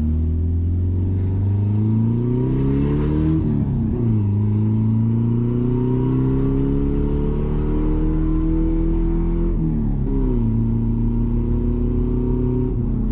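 Mazda B-series pickup's engine, on a Holley Sniper EFI, pulling hard under acceleration with a loud exhaust. Its pitch climbs, drops sharply at gear changes about 3.5 and 10 seconds in, then climbs again and holds steady.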